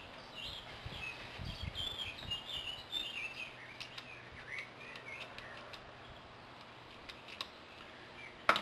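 Small birds chirping for the first few seconds, followed by a few faint ticks and one sharp click near the end.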